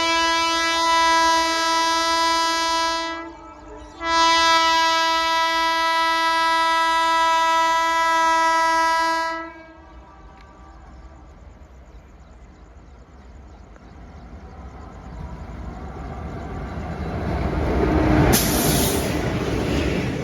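Indian Railways locomotive horn sounding two long, steady blasts, the second longer, then the train approaching, its running noise growing steadily louder to a peak near the end.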